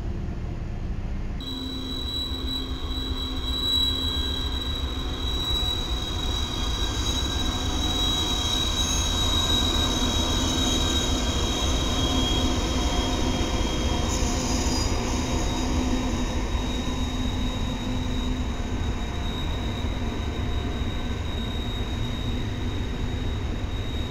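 A train rolling past with its wheels giving a steady high-pitched squeal over the rumble of the cars.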